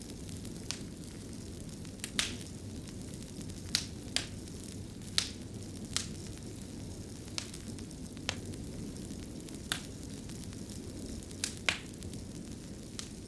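Wood fire burning in a fireplace: a steady low rumble of the flames with about a dozen sharp, irregularly spaced crackles and pops.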